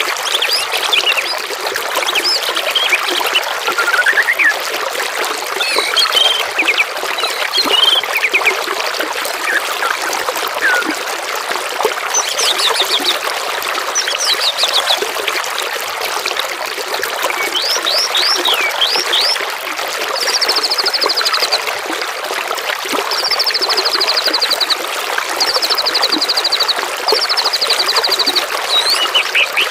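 Steady trickling of flowing water, with songbirds calling over it: scattered chirps and whistles at first, then four quick high trills, each about a second and a half long, in the second half.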